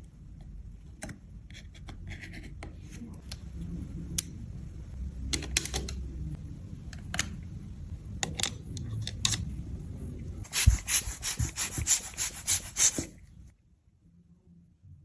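Close handling noise of small objects being rubbed and scraped, with scattered sharp clicks. Near the end comes a quick run of about ten loud taps, several a second, before it stops.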